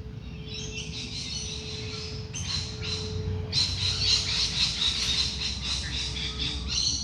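Dawn chorus of wild birds: many high chirps and calls overlap, growing into loud, rapid chattering from about halfway through. Under them, a singing bowl's soft steady hum fades in and out in the first half.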